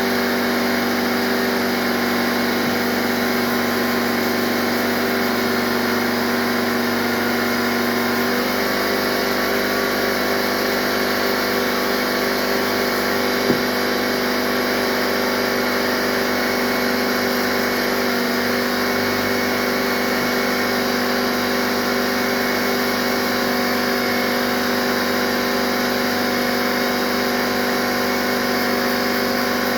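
Steady running of a small shop air compressor feeding a pneumatic DA (dual-action) sander that is feathering out paint cracks: a constant pitched hum over air hiss. The hum's pitch shifts slightly about eight seconds in, and there is a single sharp click about halfway through.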